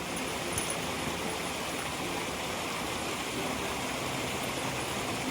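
A mountain stream rushing steadily: an even, unbroken hiss of flowing water.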